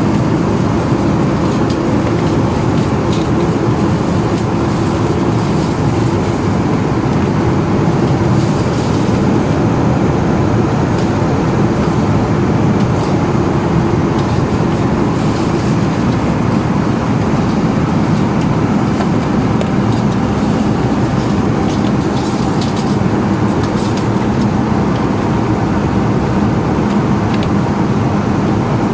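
Steady cabin noise of an Airbus A320: an even, unbroken rumble and hiss of engines and airflow.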